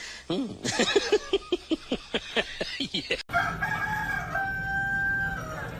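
Chicken calls: a fast run of short, pitched clucks, about seven a second, then after a cut a long held crowing call that steps up in pitch partway through.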